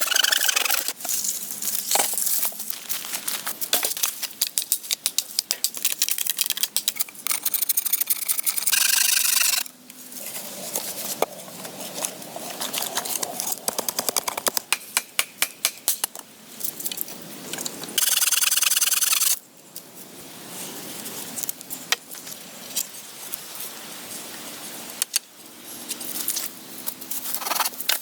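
Hand tools working wood: many quick scraping and knocking strokes in a rapid, uneven series, with two short, louder stretches of rough noise.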